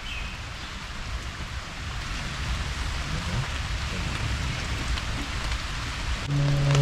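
Heavy rain pouring steadily, growing gradually louder. Near the end, steady held tones of background music come in.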